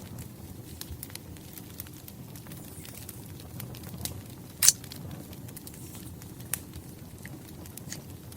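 Wood fire crackling: scattered small pops over a low steady rumble, with one louder snap about halfway through.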